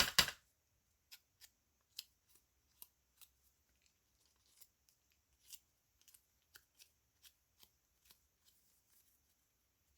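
Faint, irregular light taps and clicks, about two a second, from inking a small paper cutout by hand, with one louder click at the start.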